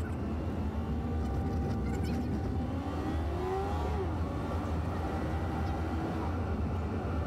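Car on the move: a steady low engine and road rumble. About three seconds in, the engine note rises as it accelerates, then drops sharply just before the four-second mark, as at a gear change.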